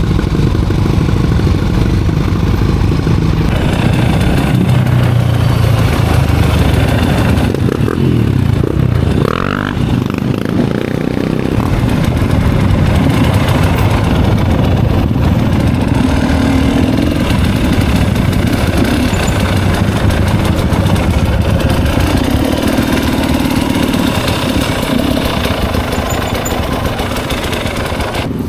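Off-road motorcycle engine running on a dirt trail, revving up and dropping back about eight to ten seconds in.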